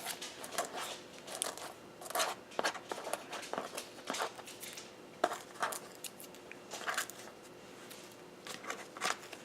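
Scrapbooking papers and sticker packs being handled and leafed through: irregular rustling, with a quieter pause about seven seconds in.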